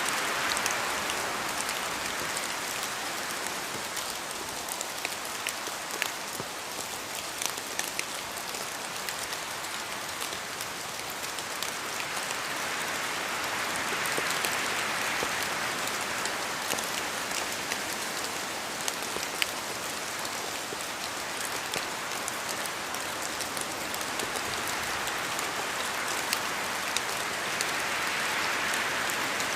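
Steady rain falling in a forest, with many separate drops ticking sharply against the hiss. The hiss swells and eases, growing louder about halfway through and again near the end.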